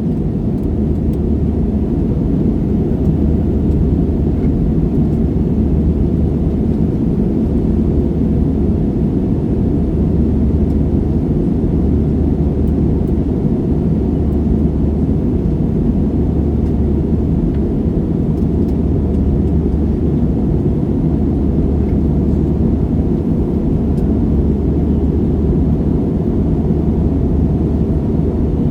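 Cabin noise of an AirAsia Airbus A320-family jet in flight, heard from a seat over the wing: a steady, unbroken rumble of engines and airflow, deep and even.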